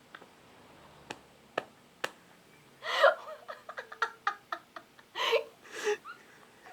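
A few faint clicks, then a run of short, broken vocal bursts from a person, starting about three seconds in.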